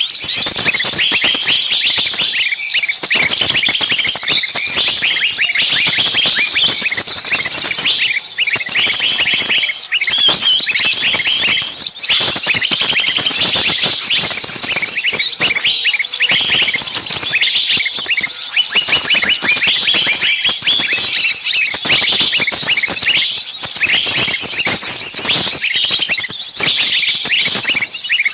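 A dense chorus of many small songbirds chirping and shrieking over one another without a break. These are agitated, distress-like calls of the kind used on bird-trapping lure recordings.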